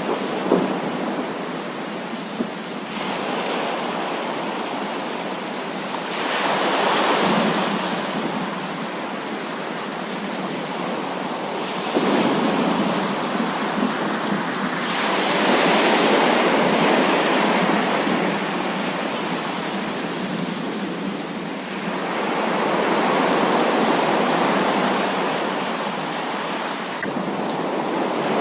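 Heavy rain pouring steadily, swelling louder three times for several seconds at a time, with a couple of sharp drop-like ticks near the start.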